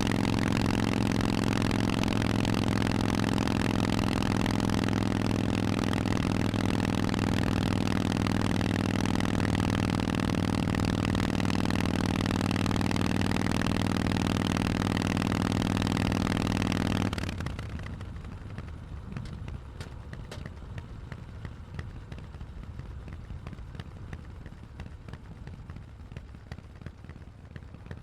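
Harley-Davidson Forty-Eight's air-cooled V-twin with Vance & Hines exhausts idling steadily, then shut off about two-thirds of the way in. After that only faint background noise with scattered small clicks remains.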